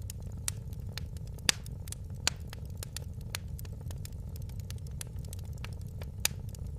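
Wood fire in a fireplace crackling, with irregular sharp pops over a steady low rumble; the loudest pop comes about a second and a half in.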